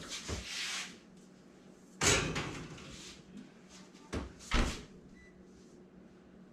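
Kitchen oven door and metal baking sheet: a brief scrape, then a loud thud about two seconds in and two more knocks near four and a half seconds as the pan goes in and the oven door is shut.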